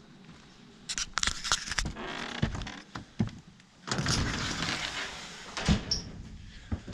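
A door being opened: several clicks and knocks, then a longer scraping rush about four seconds in, ending in a sharp knock.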